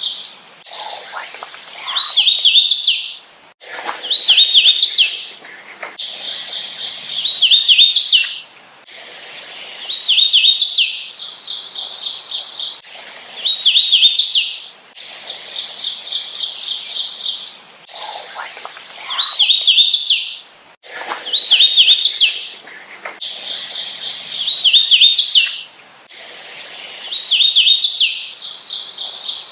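Hooded warbler singing, about nine loud repeats of its short song of slurred whistled notes that ends in a rising flourish. Between songs come runs of quick, evenly spaced high notes.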